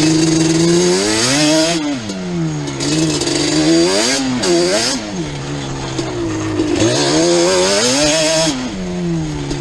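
Yamaha Banshee 350's twin-cylinder two-stroke engine being ridden, revving up and easing off about four times as the throttle is opened and closed.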